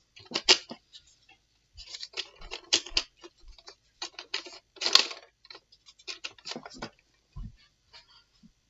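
Irregular plastic clicks and rattles from handling a Nerf blaster and its darts, loudest about five seconds in, followed by one dull thud near the end.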